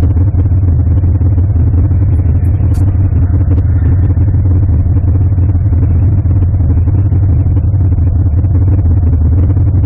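A car engine running steadily close by, a loud deep rumble with no change in pace, and a couple of faint short ticks about three seconds in.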